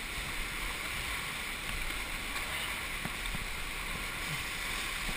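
Steady rushing of river water around a paddle raft.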